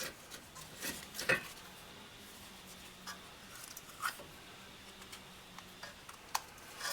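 A few light, scattered metallic clinks and taps of hand tools and brake parts while a rear brake caliper assembly is being unbolted, with quiet between them.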